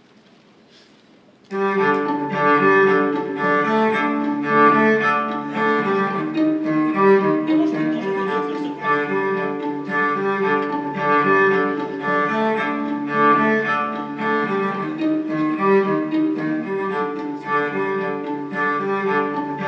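Bowed string music with cello and violin, starting abruptly about a second and a half in after a faint hush and playing on in short repeated notes.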